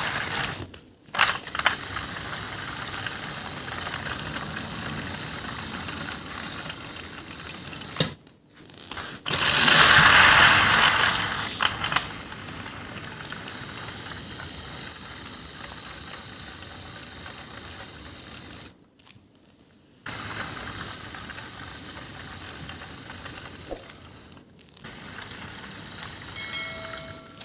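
Toy train's small motor and gears whirring steadily as it runs, broken by several abrupt cuts, with a louder rush of noise about ten seconds in.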